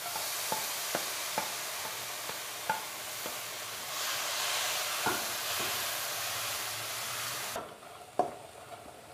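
Shredded cabbage sizzling as it fries in a non-stick pan, stirred with a spatula that clicks and scrapes against the pan now and then. The sizzle grows louder about halfway through and cuts off suddenly near the end, leaving a couple of taps.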